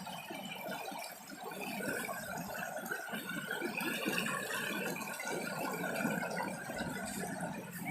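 Stream water flowing and splashing over rocks, a steady babbling.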